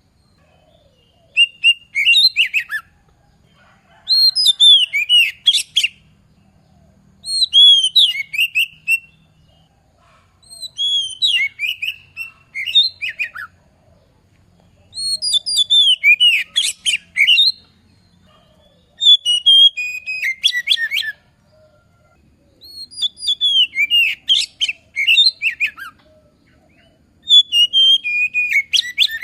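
Oriental magpie-robin (kacer) singing at full voice: about eight phrases, each a couple of seconds long and separated by short pauses, mixing sliding whistled notes with quick rattling notes.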